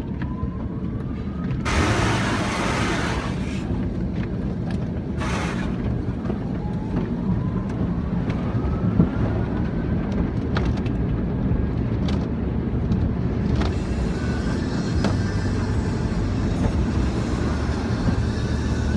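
Automatic car wash machinery heard from inside the car: a steady low rumble, with surges of spray about two and five seconds in and a slow rising whine twice. About two-thirds of the way through, a steady hiss joins in and carries on.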